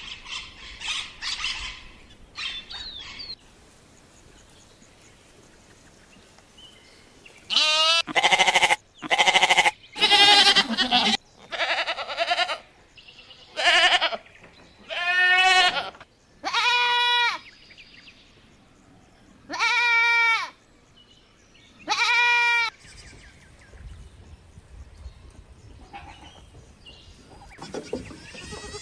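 A goat bleating over and over: about ten separate calls, each under a second long, many with a quavering, wavering pitch.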